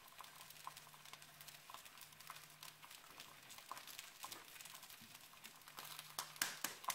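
Faint crackling and popping of bread slices frying in hot vegetable oil in a frying pan, with a low steady hum underneath. A couple of louder clicks come near the end.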